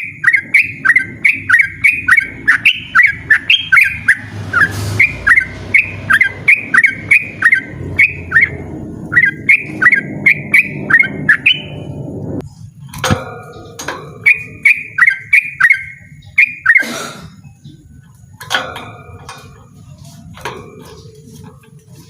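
Yellow-vented bulbul (trucukan) singing a loud, fast run of repeated downward-sweeping notes, about three a second. The run breaks off about twelve seconds in, then resumes in shorter bursts and single notes.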